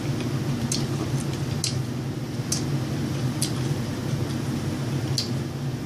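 Close-miked chewing: short, sharp mouth clicks about once a second, over a steady low room hum.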